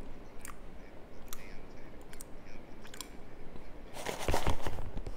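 Crunchy baked cornstarch chunks being chewed, with scattered crisp crackles and a louder burst of crunching about four seconds in.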